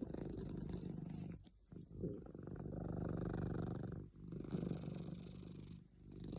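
Cat purring steadily and contentedly, with short breaks at each turn of breath, about every two seconds.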